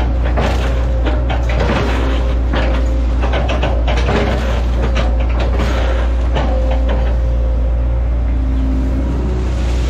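Hitachi ZX110 excavator's diesel engine running steadily under load, with many sharp cracks and knocks as it breaks up an oil palm trunk. The cracking eases off about seven seconds in.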